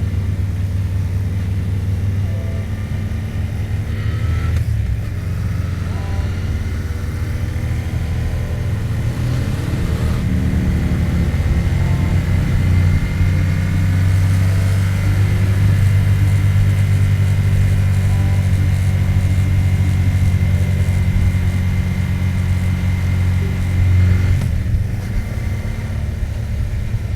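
2024 Yamaha MT-07's parallel-twin engine running under way at a steady speed, its note dipping briefly three times as the throttle changes.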